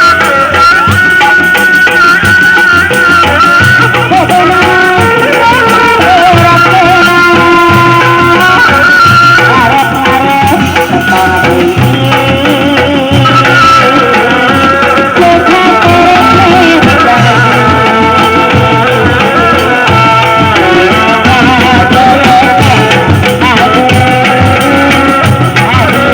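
Loud traditional kuda lumping accompaniment music: a steady drum pattern with a wavering melody line over it.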